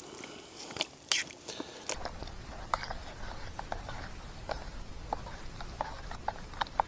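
Wood campfire crackling: irregular sharp pops and ticks. A steady low rumble begins abruptly about two seconds in.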